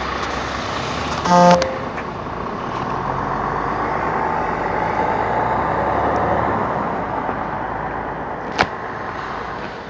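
Fire truck engine and road noise swelling as it draws near and fading as it moves off. A short horn toot sounds about a second and a half in.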